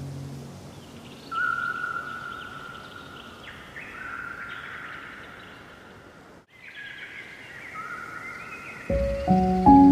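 Several birds singing in clear whistled phrases that step up and down and overlap, over a soft outdoor hiss. Low background music fades out in the first half second, the sound drops out briefly about six and a half seconds in, and gentle piano-like music comes in near the end.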